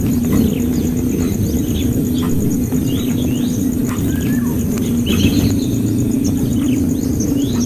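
Birds chirping in short calls that glide up and down, repeated every half second or so, over a steady low rumble and a faint, steady high-pitched hum.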